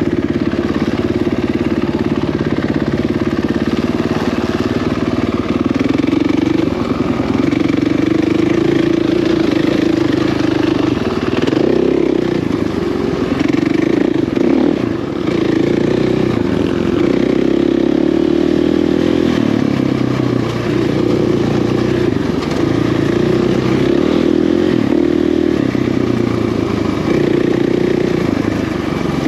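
Dirt bike engine running continuously under changing throttle while riding, its pitch wavering up and down, over a steady hiss.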